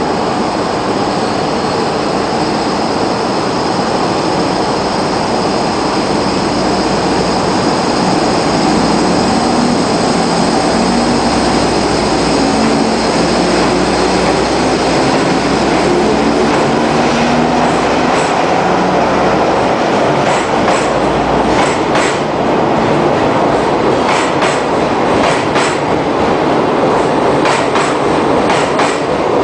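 Sleeper express train of coaches hauled by an EF65 electric locomotive running through the station with a steady rumble. In the second half the wheels clack repeatedly over rail joints.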